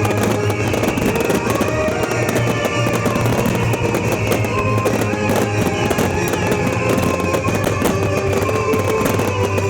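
Music playing loudly with fireworks crackling and popping throughout a pyromusical display.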